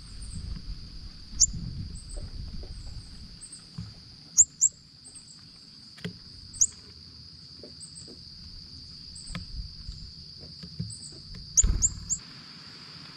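Northern cardinals giving sharp, high metallic chip calls: single chips spaced a few seconds apart, a close pair in the middle, and a quick run of three near the end. Under them runs a steady high-pitched insect drone, and a low thud comes with the last chips.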